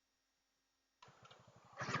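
Dead silence for about a second, then a single-cylinder dual-sport motorcycle engine cuts in, running with evenly spaced firing pulses and getting louder near the end as it pulls.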